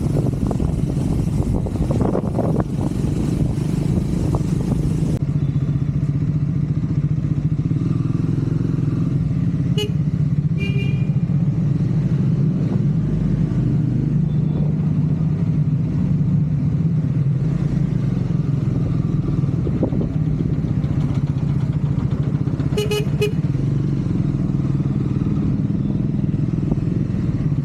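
Triumph Scrambler 400 X's single-cylinder engine running steadily while riding, with wind rushing over the microphone for the first few seconds. Brief high beeps come twice about ten seconds in and again about 23 seconds in.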